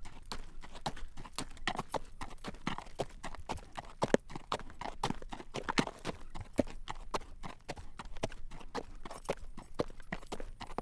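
Horse's hooves clip-clopping at a walk on a road while it draws a carriage: a steady run of sharp clacks, several a second.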